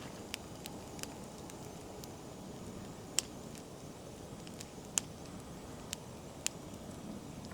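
Campfire of damp oak branches burning: a steady low rush of flames with sharp single crackles and pops every second or so, the loudest two about 3 and 5 seconds in.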